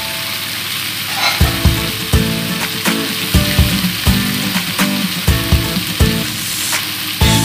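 Raw chicken pieces sizzling in hot oil with onion and ginger in a pot, a steady frying hiss. Background music plays over it from about a second and a half in.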